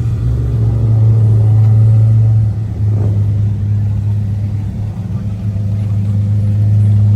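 Car engine running steadily with a loud, low, even hum.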